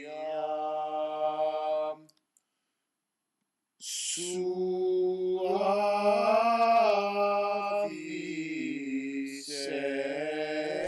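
Unaccompanied voices singing long held chords without words. They break off about two seconds in, leaving nearly two seconds of silence, then come back in on another chord whose pitches shift slightly.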